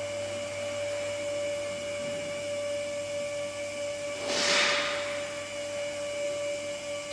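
Scissor lift's hydraulic pump unit running with a steady whine. About four seconds in there is a short, louder burst of hiss.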